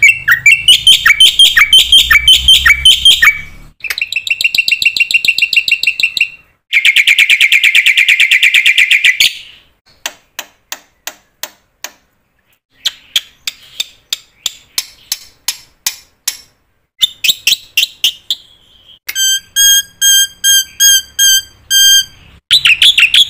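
A series of bird calls: rapid, high-pitched trills and chirps in separate runs of a few seconds, with abrupt stops and short silences between them.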